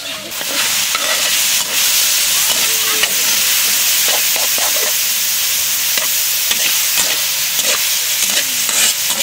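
Food sizzling loudly as it is stir-fried in a steel wok, the sizzle swelling about half a second in and then holding steady. Through it come the scrapes and clinks of a slotted metal spatula against the pan.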